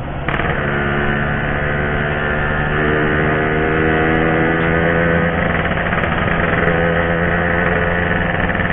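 Yamaha RX-King's 135cc single-cylinder two-stroke engine idling steadily, its pitch rising slightly about three seconds in.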